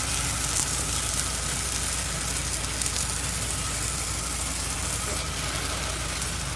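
Peeled bananas shallow-frying in oil in a pan: a steady sizzling hiss with fine crackle, over a low steady hum.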